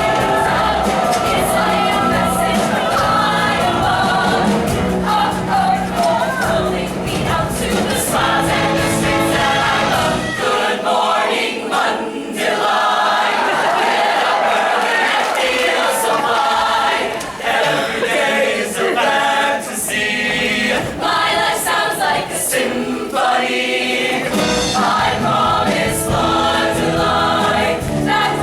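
A choir singing with musical accompaniment. The low bass drops out for a stretch in the middle and returns near the end.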